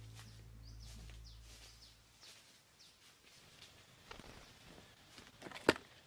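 Small birds chirping faintly in short rising and falling calls, while the tail of some background music fades out in the first two seconds. Near the end there is a single sharp click, the loudest sound.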